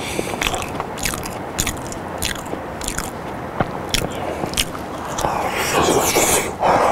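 Close-miked chewing of boiled potato on a lapel microphone: wet mouth smacks and clicks, several a second, growing louder near the end.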